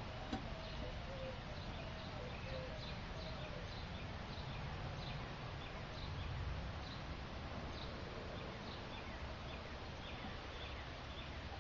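A bird chirping over and over, short high notes about once or twice a second, over a low steady background rumble.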